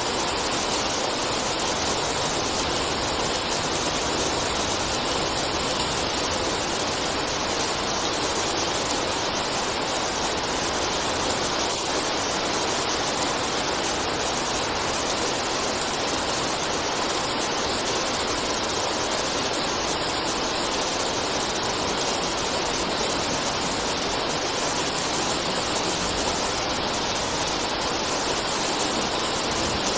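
Heavy rain falling steadily, an even hiss of water with no breaks or single drops standing out.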